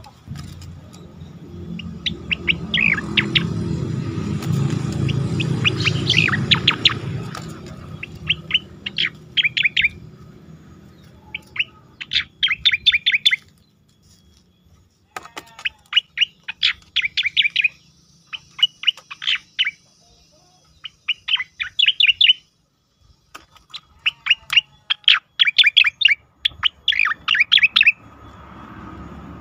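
A cucak koreng singing in repeated short phrases, each a quick run of sharp up-and-down whistled notes lasting about a second, with pauses between them. A low rumble sits under the first several seconds.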